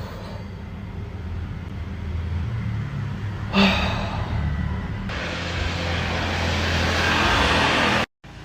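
Road traffic heard from indoors: a low engine rumble, with a passing vehicle's noise swelling louder from about five seconds in until it cuts off abruptly near the end. A single sigh is heard about a third of the way through.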